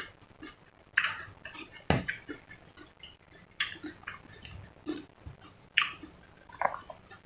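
A person chewing and biting food close to the microphone, with irregular crunches and mouth sounds about once a second, and a dull knock about two seconds in.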